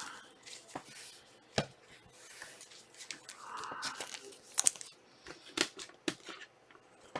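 Trading cards being handled and sorted: a string of sharp clicks and taps with a couple of short rustling stretches.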